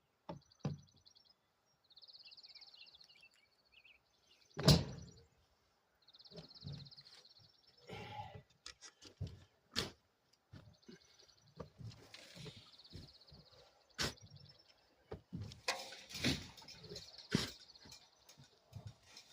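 Scattered knocks and thumps, the heaviest a thud about four and a half seconds in, over birds chirping in rapid high twittering bursts.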